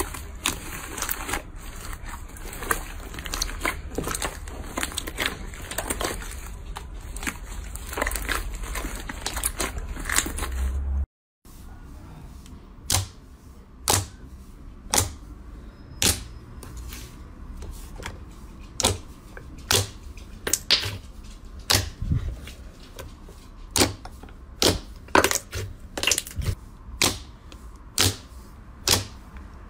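Slime being worked by hand for ASMR: first a dense run of crackling and crunching, then, after a cut, sharp clicking pops about once a second as the slime is pressed and poked.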